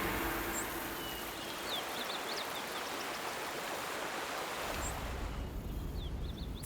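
Outdoor natural ambience: a steady rushing hiss like flowing water, with a few faint, short high chirps about two seconds in and again near the end.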